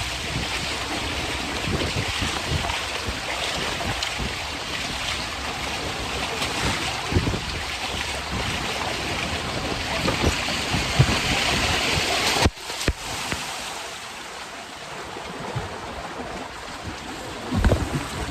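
Wind buffeting the microphone, with water rushing and splashing along the hulls of a Hobie Cat Getaway catamaran under sail. The sound breaks off sharply about twelve seconds in and comes back quieter.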